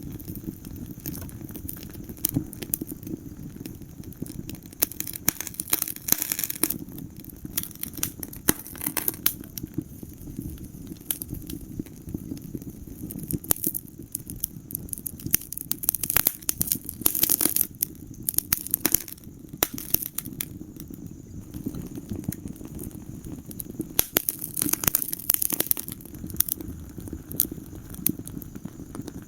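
Wood fire burning in a fireplace: a steady low rumble of flames with frequent irregular crackles and sharp pops, several of them in quick clusters.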